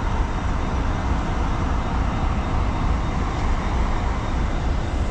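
Steady low rumble of vehicle engines and road traffic, with no distinct events.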